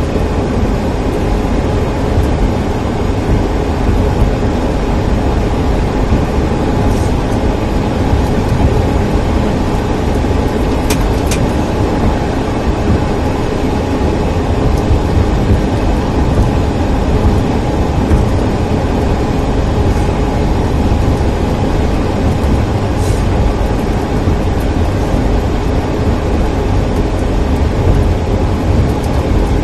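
Steady rumble of road and engine noise, loudest at the low end, heard inside a moving car, with a few faint ticks.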